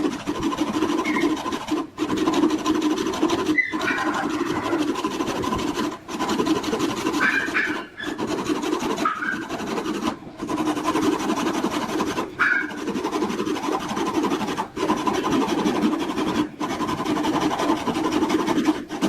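A power tool running steadily while working wood, its sound cutting off briefly and starting again several times.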